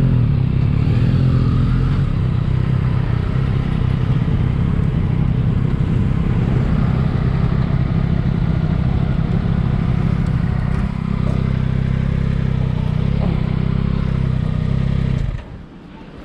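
Motorcycle engine running steadily at low revs, cutting off suddenly about fifteen seconds in.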